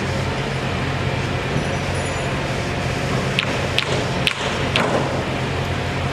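A steady low machine drone, with four short sharp clicks about half a second apart a little past the middle.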